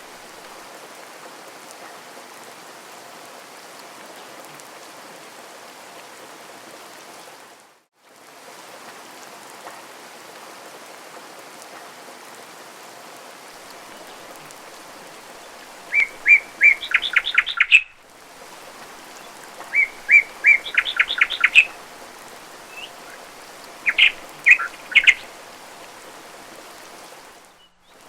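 Steady hiss of rain, with songbirds chirping in quick rattling trills in three short bouts during the second half. The rain sound drops out briefly about three times, as at the seams of a looped recording.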